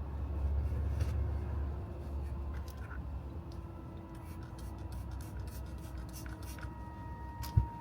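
Rubbing and scratching on a golf club shaft as old grip tape and solvent residue are cleaned off, with light scattered clicks and one sharp thump near the end.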